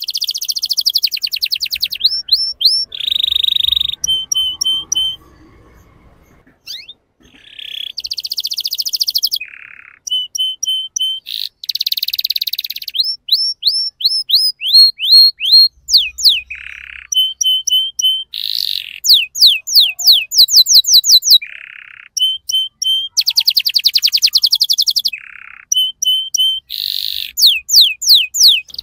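Young male canary singing a long, varied song of fast trills, runs of rising whistled notes and rolling phrases, with one short pause about five seconds in.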